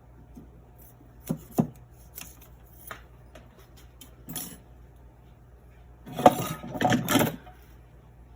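Metal parts of a BB gun being handled and knocked on a workbench during disassembly: a few separate clicks and knocks, then a short burst of clattering about six seconds in.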